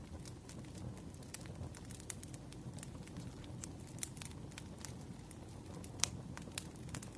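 Campfire crackling: irregular sharp pops and snaps over a low steady rumble, with one louder pop about six seconds in.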